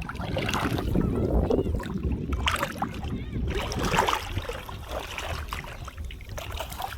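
Seaside ambience: wind buffeting the microphone with a low rumble, over the wash of surf and faint voices in the background.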